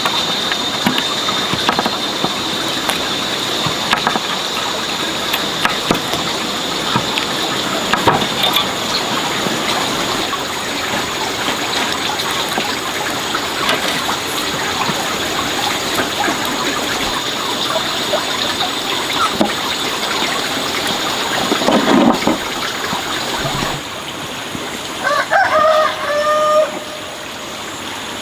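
A rooster crowing once near the end, over a steady rushing background noise.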